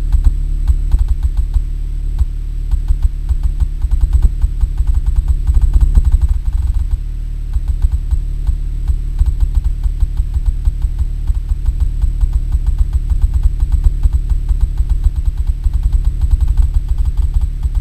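Bass-heavy music through car subwoofers (two old Pioneer subs on a Pyramid 1000-watt amp), a deep, loud bass line with fast, rapid-fire bass hits.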